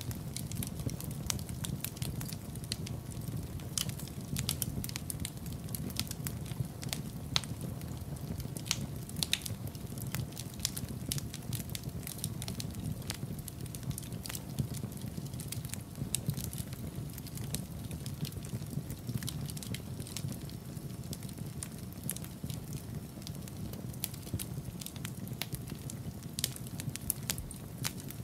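Wood fire crackling in a fireplace: many small, irregular snaps and pops over a steady low rumble.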